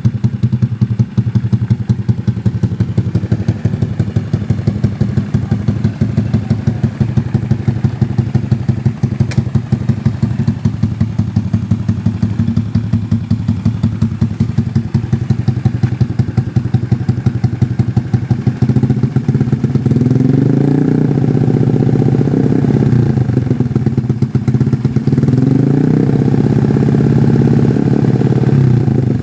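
Suzuki Shogun 110R's tuned single-cylinder four-stroke engine running loud through a CS Pro aftermarket exhaust, idling with a fast, even exhaust beat. In the last ten seconds it is revved up and let back down twice.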